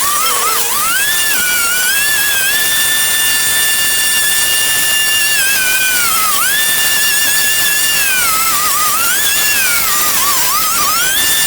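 High-pitched whine of a power tool's motor running at speed, its pitch sagging and recovering several times as it is loaded while cutting, with a steady hiss underneath.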